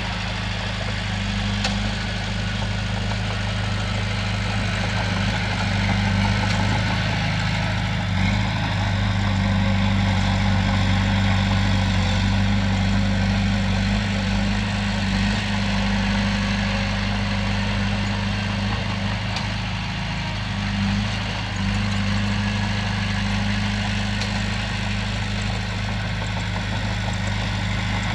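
Komatsu bulldozer's heavy diesel engine running steadily with a deep, even hum, swelling slightly under load partway through.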